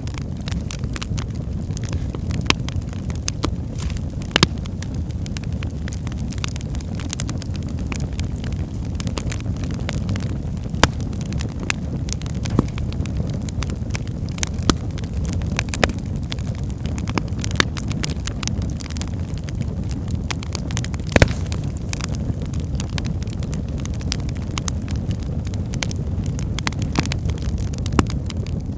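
Wood fire burning in a fireplace: a steady low rumble of flames with frequent sharp crackles and occasional louder pops from the burning logs.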